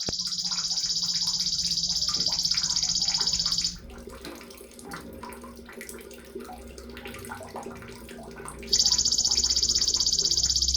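Sogon (crimson sunbird) singing a long, high, very rapid trill lasting about three and a half seconds. A quieter pause follows with faint scattered chirps, and the same trill starts again nearly nine seconds in.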